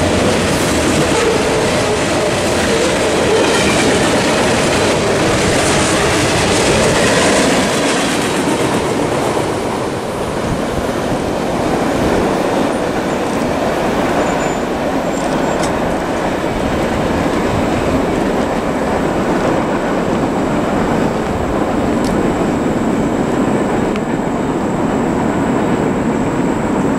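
Freight cars of a mixed freight train rolling past over the crossing, wheels clicking over the rail joints with some wheel squeal. The last car clears about ten seconds in, and the rumble of the departing train carries on after it.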